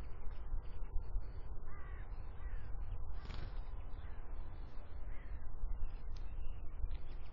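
A single harsh, caw-like bird call about three seconds in, with a few faint, thin bird calls over a steady low rumble.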